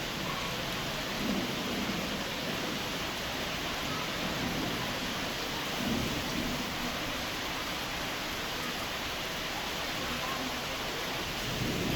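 Heavy rain pouring down in a steady, even hiss, with a few faint low swells.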